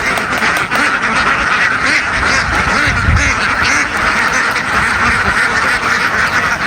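A large flock of domestic ducks quacking all at once, a dense, continuous din of overlapping calls.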